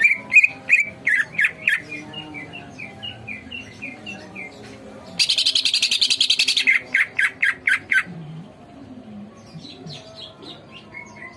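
Cucak ijo (green leafbird) in full song: quick series of loud, sharp repeated notes, a harsh buzzing rattle about five seconds in, then more loud notes, easing into softer twittering near the end.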